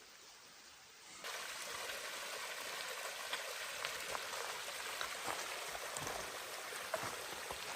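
Waterfall water rushing and splashing, coming in suddenly about a second in as a steady hiss with scattered droplet splashes.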